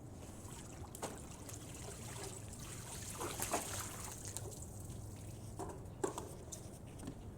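Faint trickle of water over a steady low hum, with a few light clicks about one, three and a half and six seconds in.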